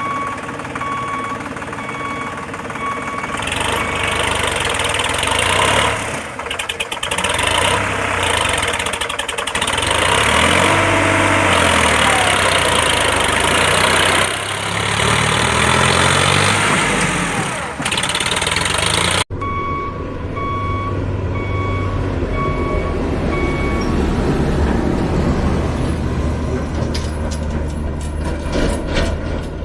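A heavy diesel construction-machine engine running with a broad mechanical din, its revs rising and falling. A reversing alarm beeps steadily over the first few seconds, and again after an abrupt cut about 19 seconds in.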